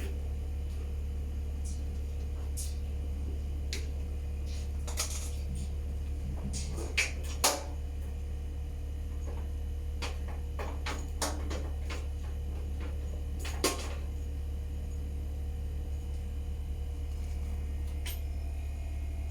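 A steady low hum with a handful of scattered clicks and knocks, the loudest about seven and a half seconds in.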